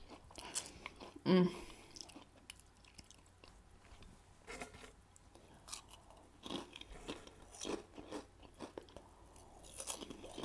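Close-miked chewing of a mouthful of food: soft wet mouth clicks and small crunches scattered through, with a brief vocal sound about a second and a half in.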